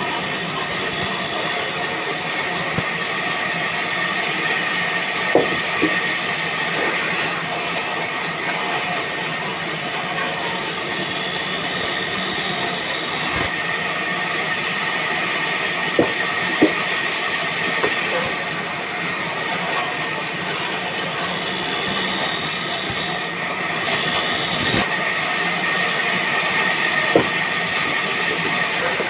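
Band sawmill running, its blade cutting through wood with a steady hiss that grows stronger and fades a few times, with a few sharp knocks.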